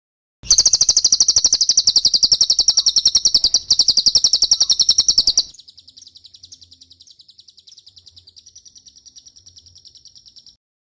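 Cililin song: a loud, rapid, high-pitched trill of repeated notes, with a brief break a little past halfway through its loud part. Around 5.5 s it drops suddenly to a much quieter trill that continues for about five seconds before stopping.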